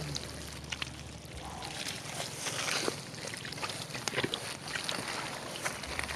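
Irregular sloshing and splashing in shallow muddy water, with many short wet strokes, as hands and feet work through a flooded rice-field mud pool.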